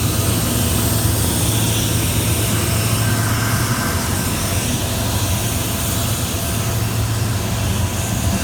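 Loaded CSX coal train passing close by: a steady rumble of rolling cars with a low drone.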